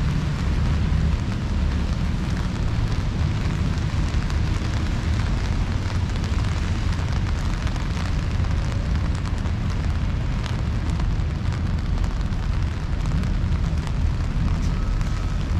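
Steady rain hiss and patter over a constant low rumble of city traffic.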